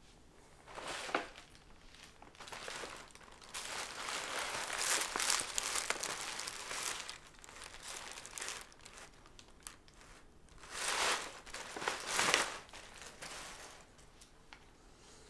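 Gift wrapping paper crinkling and tearing as a present is unwrapped by hand, in several rustling bursts: a short one about a second in, a longer spell from about four to seven seconds in, and another near the end.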